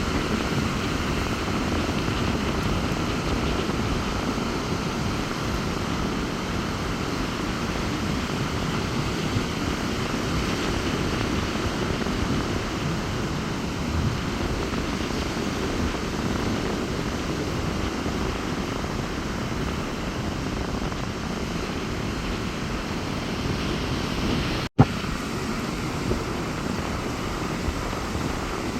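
Rough sea surf rushing onto the beach in strong wind, a steady, rumbling wash with wind buffeting the microphone. The sound cuts out for a moment about 25 seconds in.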